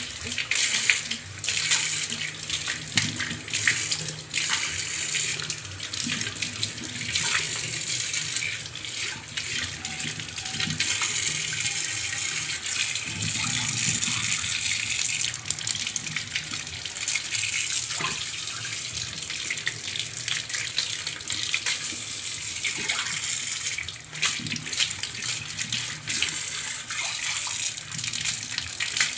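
Water running steadily from a tap into a sink, with frequent short clinks and knocks throughout.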